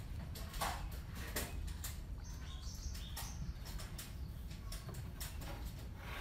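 Hand woodworking tools working wood: irregular light knocks and scrapes, a few a second, over a steady low hum.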